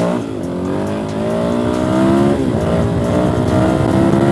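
Motorcycle engine accelerating hard through the gears, its pitch climbing steadily in each gear and dropping sharply at the upshifts just after the start and about halfway through, working up to fifth gear.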